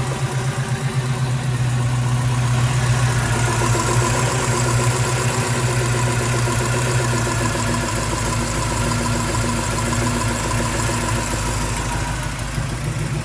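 Pontiac 455 V8 with MSD Atomic fuel injection idling steadily while its distributor is turned counterclockwise to retard the ignition timing.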